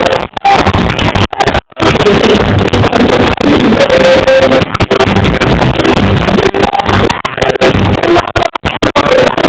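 Live reggae band music recorded through an overloaded phone microphone, distorted and muddy, with several brief dropouts where the sound cuts out for an instant.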